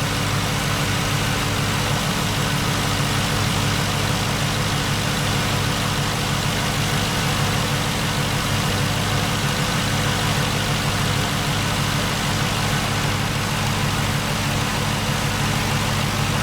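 GM LS1 5.7-litre V8, newly swapped into a Jeep Wrangler JK, idling steadily on its first start.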